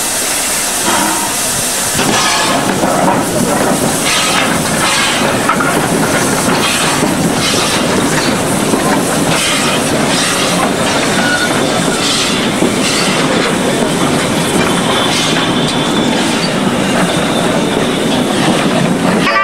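Steam locomotive hissing for the first couple of seconds, then a steam-hauled passenger train rolling past, its carriage wheels clacking over the rail joints about once or twice a second above a steady rumble.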